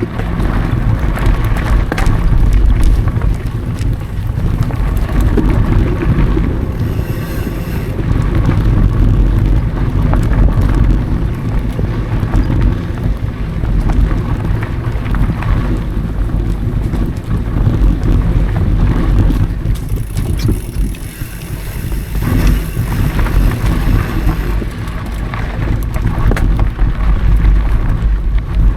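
Mountain bike being ridden fast over dry dirt singletrack: wind buffeting the action camera's microphone as a loud, steady rumble, with the bike's tyres on the trail and a constant patter of small rattles and knocks from the frame.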